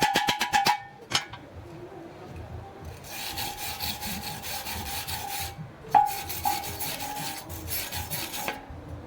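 Rasping scraping on metal in two spells of a couple of seconds each, with a sharp metallic clink about a second in and a louder one about six seconds in.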